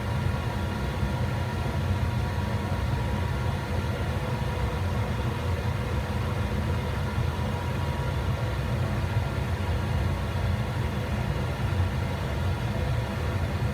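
Monarch 10EE lathe running steadily: an even low hum with a faint constant whine above it.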